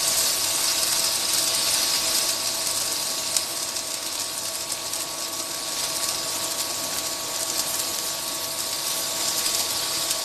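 Paneer cubes shallow-frying in hot oil in a nonstick pan: a steady sizzle, with a faint steady whine underneath, as the pieces are turned over with a spatula.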